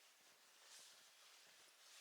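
Near silence, with only faint soft rustling.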